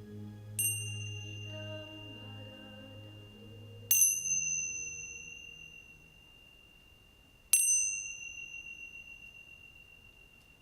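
A small bell struck three times, roughly every three and a half seconds. Each strike gives a clear high ringing tone that slowly fades. The first strike is softer, and the soft background music ends just before the second.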